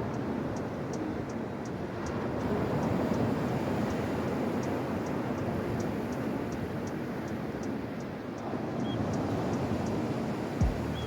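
Steady roar of surf and wind on the shore, rising and falling slowly, with a faint high ticking about two or three times a second.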